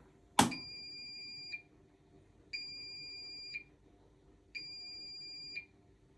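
Bosch Serie 4 washing machine's end-of-programme signal: three identical steady beeps, each about a second long and two seconds apart, the first opening with a sharp click. It signals that the wash cycle has finished.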